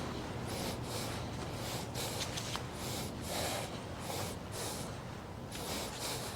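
Repeated short scraping or rustling strokes, irregular, about two or three a second, over a steady low background hum.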